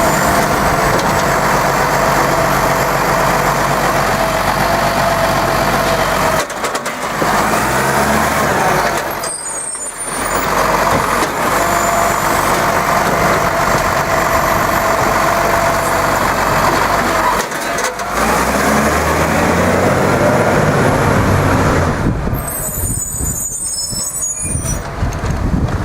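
Garbage truck's diesel engine running loudly, revving up a couple of times, with a hiss of air near the end.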